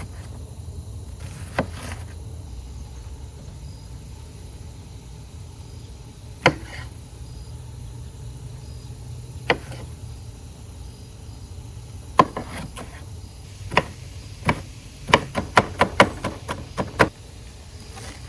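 Knife chopping vegetables on a cutting board: single strikes a few seconds apart, then a quicker run of chops near the end, over a steady low rumble.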